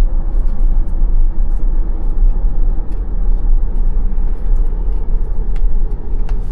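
Steady low road and tyre rumble inside the cabin of a moving 2021 Tesla Model Y Long Range, with no engine note from the electric drive.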